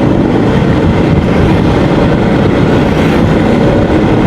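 Yamaha XMAX 250 scooter's single-cylinder engine running, under a loud, steady rumbling noise.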